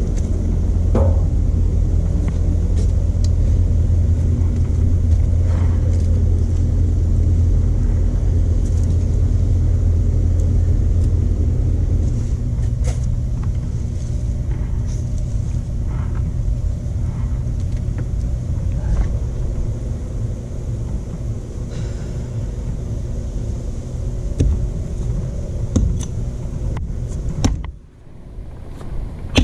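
An engine running steadily with a strong low hum; it eases off somewhat about twelve seconds in, then drops out briefly near the end and picks up again.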